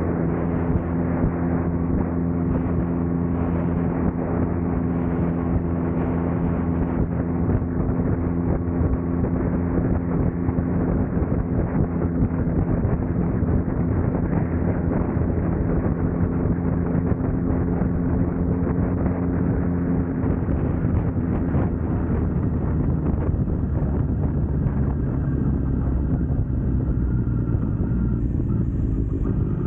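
Suzuki Katana's inline-four engine running at a steady cruise, heard from on the moving motorcycle with wind noise on the microphone. The engine note changes about two-thirds of the way through.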